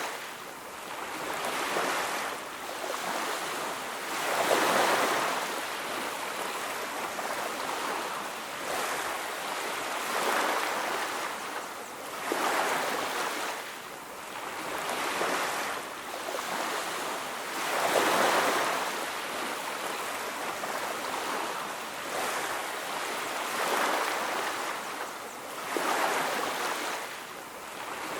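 Ocean surf breaking on a beach: a steady wash of water noise that swells and recedes as each wave comes in, every few seconds.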